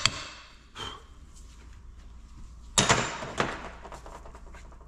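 Metal hand tools and parts being handled on a workbench: a light knock about a second in, then a louder clatter of metal on metal around three seconds in.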